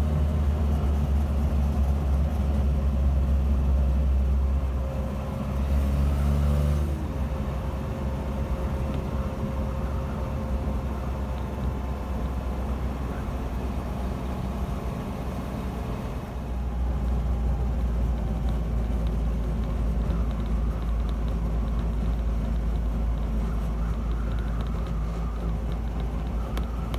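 A Land Rover Series 3's 2.25-litre petrol engine drones loudly on the move, heard from inside the cab through an exhaust full of holes and blowing at the manifold. The drone eases off about five seconds in and builds again about sixteen seconds in.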